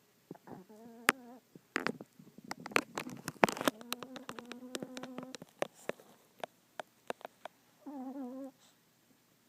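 Deeply sleeping chihuahua giving high, wavering whine-like snores three times: briefly near the start, longer in the middle, and briefly near the end. A run of sharp clicks falls in between.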